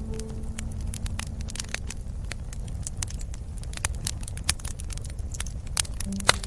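Wood fire crackling in a fireplace: many irregular sharp pops and snaps over a steady low rumble of burning. A few soft held notes of background music sound at the very start and again near the end.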